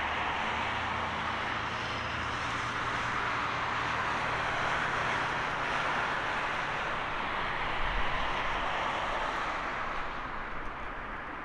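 Airbus A321neo's twin turbofan engines at takeoff thrust, a steady jet roar that eases slightly near the end.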